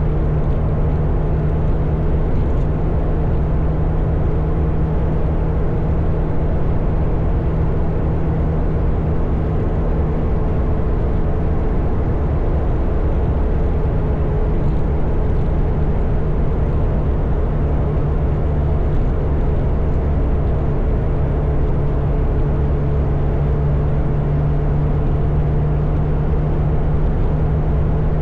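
Motorcycle engine running steadily at cruising speed, mixed with wind and road noise.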